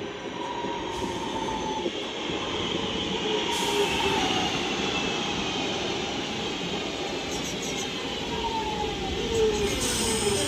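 Northern Class 323 electric multiple unit braking into the platform, its traction motors whining in several tones that fall steadily in pitch as it slows to a stop.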